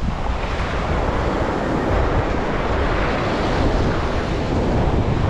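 Sea waves breaking and washing up the beach, with wind buffeting the microphone. The wash swells up about half a second in and stays loud.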